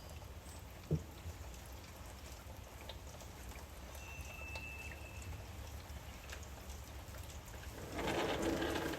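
Steady light rain with scattered drips and ticks, and one brief high bird whistle about halfway through. Near the end a louder pitched sound comes in.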